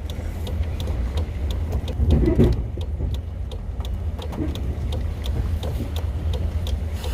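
1970 Chevrolet dump truck engine running at low speed, heard from inside the cab: a steady low rumble with a regular ticking about three times a second.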